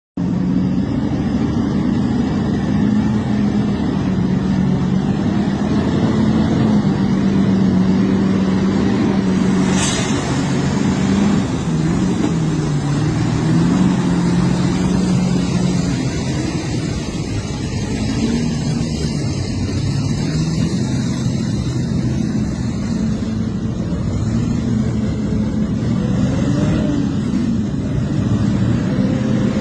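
A motor vehicle's engine running steadily, its pitch rising and falling as the speed changes, over road and wind noise, with a single sharp click about ten seconds in.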